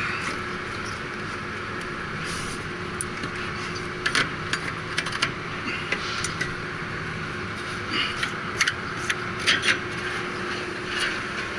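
Steady hum of rooftop HVAC equipment with a faint constant tone, broken by a series of sharp clicks and taps from handling tools and unit panels.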